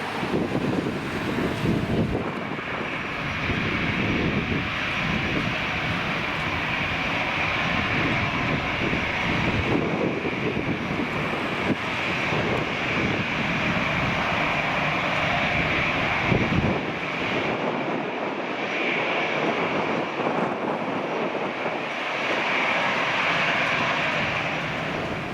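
Airbus A320 jet airliner's engines running with a steady high whine, over gusts of wind buffeting the microphone that ease about two-thirds of the way through.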